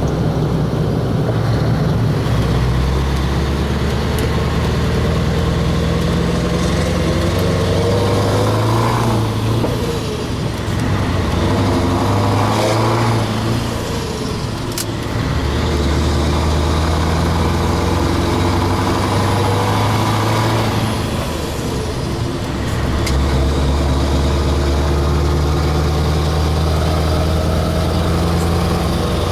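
Scania 4-series truck's V8 diesel engine running steadily. Its note dips and changes pitch about ten seconds in, again around fourteen seconds, and near twenty-two seconds.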